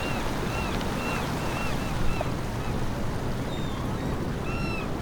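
Surf washing against the shore, with a bird calling in short arched notes, about two a second, that pause midway and start again near the end.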